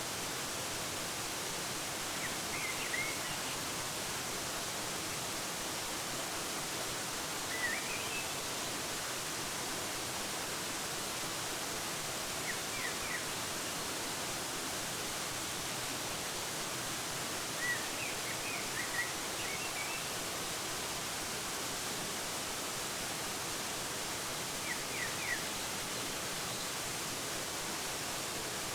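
Waterfall's steady rushing, with short bird chirps every five seconds or so.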